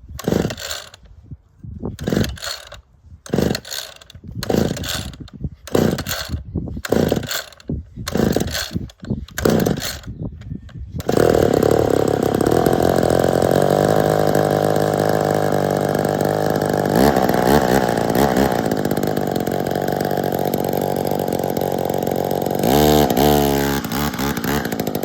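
Cold start of a McCulloch Mini-Mac 110 two-stroke chainsaw: about ten quick pulls on the starter cord, a second or so apart, before the engine catches about 11 seconds in. It then runs steadily and is revved up near the end.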